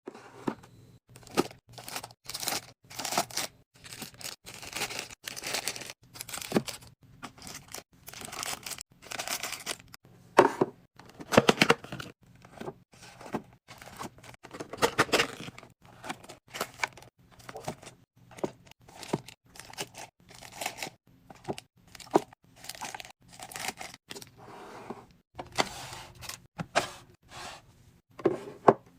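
Food packaging and containers being handled one after another: crinkling, tearing and rustling, with light knocks as items are set down.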